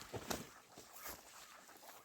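Faint peeping of young ducks swimming off, with a couple of soft knocks near the start.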